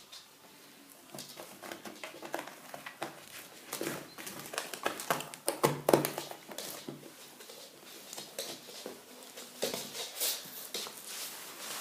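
A cat moving about inside a cardboard box: irregular scratching, rustling and light knocks against the cardboard, busiest around the middle.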